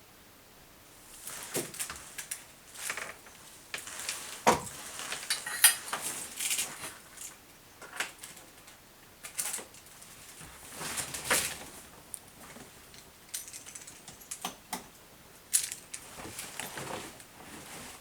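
Irregular clicks, clinks and short rattles of objects being handled, a few sharp knocks among them, with no engine running.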